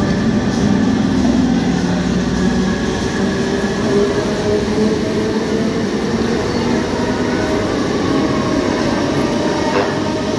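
Bandel–Howrah electric multiple-unit local train pulling out of the station, its coaches rolling past close by with a steady rumble of wheels on rail. A whine rises in pitch as the train gathers speed.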